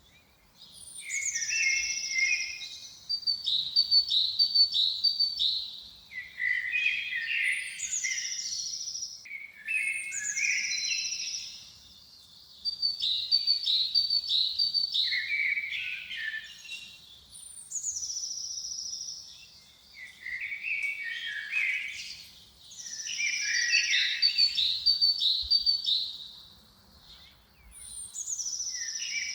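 A songbird singing the same varied phrase over and over, each a few seconds long with short pauses between. Each phrase opens with a high falling whistle and runs into quick repeated notes, then lower warbled notes.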